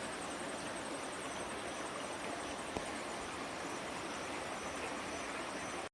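Steady outdoor hiss with faint, rapid, high-pitched insect chirring pulsing through it and one faint click about three seconds in; it cuts off abruptly at the very end.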